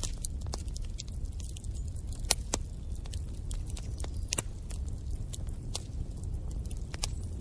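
Wood fire crackling in a fireplace: a steady low rumble of flames with irregular sharp pops and snaps, two of them louder about two and four seconds in.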